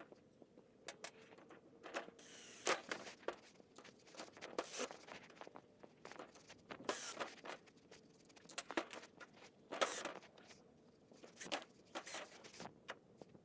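Scattered handling noises: irregular short clicks, scrapes and rustles of objects being moved and fitted together, with quiet room tone between them.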